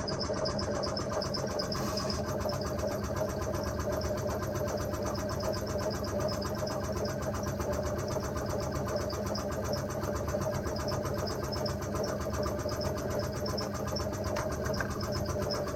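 A motor running steadily at a constant speed, with a steady whine.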